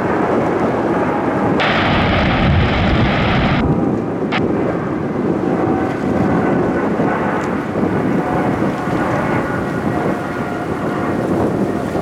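Loud, steady rumble of a large jet airliner's engines, a dense roar with faint whining tones through it, as the jet passes close by.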